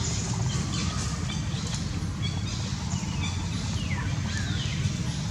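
Short high-pitched chirps from small animals, with a couple of falling squeaks about four seconds in, over a steady low rumble.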